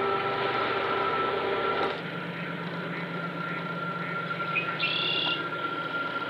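Marsh ambience: one short bird call about five seconds in, over a steady background hiss with a faint hum.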